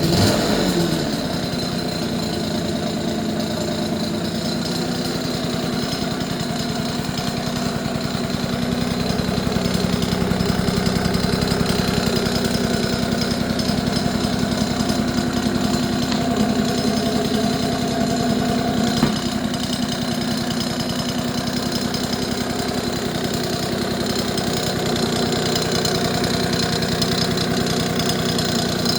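A 1979 Honda Caren AB04 scooter's engine idling steadily just after starting, a rapid even putter from its exhaust. It runs a little louder for several seconds in the middle, and there is a single click about 19 seconds in.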